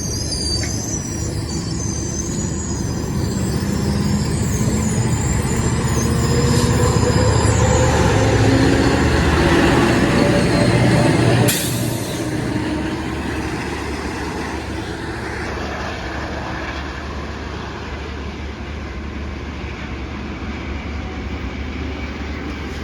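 GO Transit commuter train moving through the station, its wheels squealing high against the rails over a rolling rumble that grows louder. About eleven seconds in the level drops suddenly, and a steadier, quieter rumble of the train carries on.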